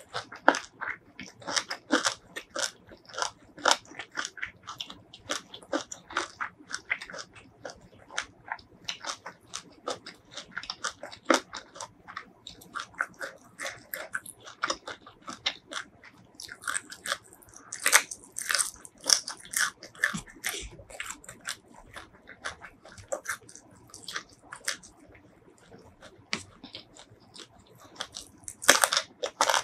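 Close-miked eating: steady chewing with wet mouth clicks and smacks. Louder crisp crunches come about two-thirds of the way in and again near the end, the last a bite into a raw cucumber stick.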